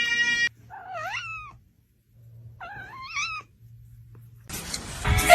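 A cat meowing twice, each meow rising and then falling in pitch. Near the end a louder, noisy sound begins.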